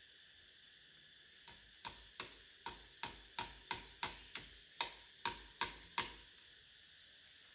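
A run of about thirteen sharp knocks, roughly three a second, over a faint steady high-pitched hum.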